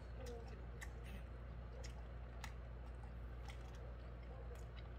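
A person chewing a mouthful of hamburger with the mouth closed: soft, wet mouth clicks every half second or so, over a steady low hum.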